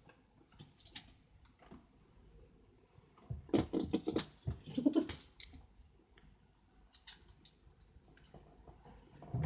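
A kitten playing: scattered light taps and scrabbling of paws and claws, busiest for a couple of seconds in the middle.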